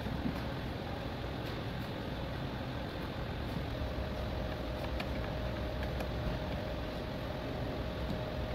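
A car engine idling with a steady low hum. A faint steady whine joins about four seconds in, and a few light clicks sound over it.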